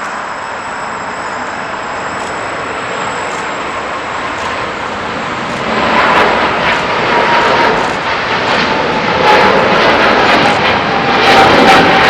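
Jet airliner taking off: the engine noise grows much louder about six seconds in, with a whine that slowly falls in pitch as it goes by.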